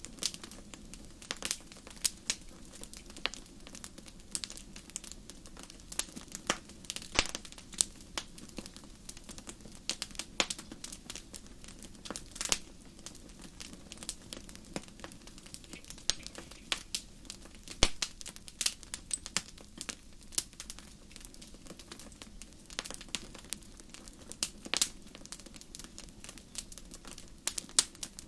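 Wood fire crackling in a fireplace: irregular sharp pops and snaps over a low, steady rush of burning.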